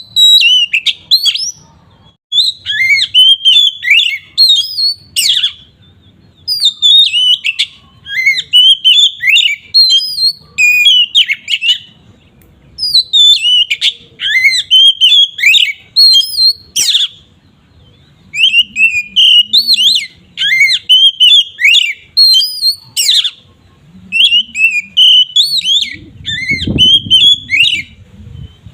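Oriental magpie-robin (kacer) singing its full, open 'ngeplong' song: loud, varied whistled phrases that sweep up and down, each lasting a second or few, with short pauses between them.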